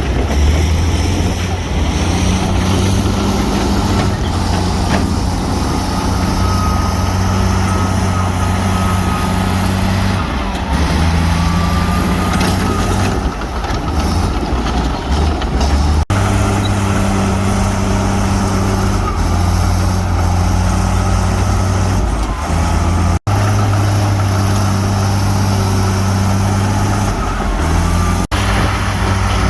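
Heavy diesel construction machinery engines running steadily under load, with a faint wavering high whine over the engine. Three short dropouts break the sound in the second half.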